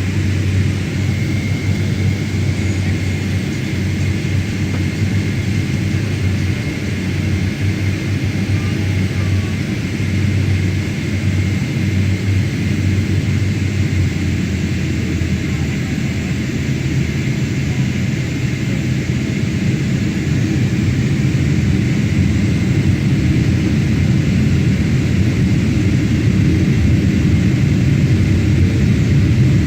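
Boeing 777-300ER's GE90 jet engines and airflow: a steady low rumble with a faint thin tone above it, growing slightly louder over the last third.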